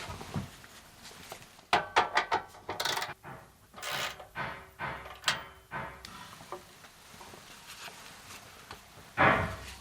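Metal clanks and knocks, several of them ringing briefly: a steel exhaust pipe section being shifted and knocked into line while it is fitted.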